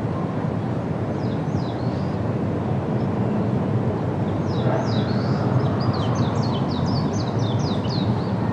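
A small bird chirping over a steady low rumble of outdoor noise. It gives a few quick downward-sliding notes about a second in, then a longer rapid run of them from about halfway to near the end.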